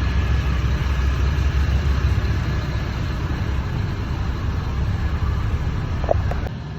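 UD Trucks heavy truck's diesel engine running with a steady low rumble that eases near the end, with a brief short squeak about six seconds in.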